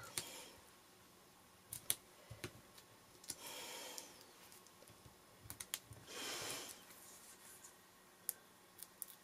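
Paper and card pieces being handled and set onto a greeting card: scattered light clicks and taps, with two short rustling slides of paper, the second about six seconds in.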